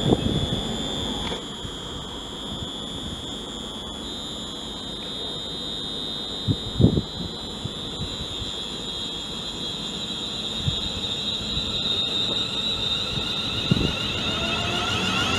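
A steady high-pitched electrical whine holding one pitch, with a short low thump about seven seconds in. Near the end further whining tones slide up in pitch.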